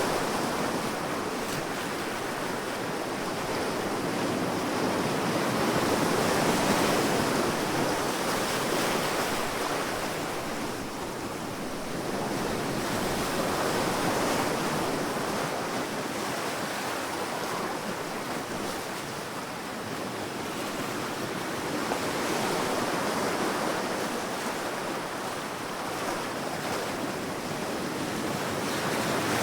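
Sea waves breaking and washing up on a beach, a steady surf that swells and eases every few seconds.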